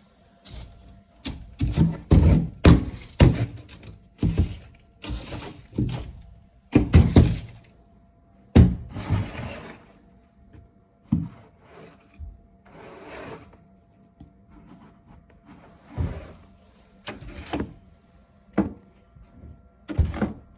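Snow shovel working packed snow: irregular strokes of the blade scraping and thunking against the ground, a few of them longer scrapes.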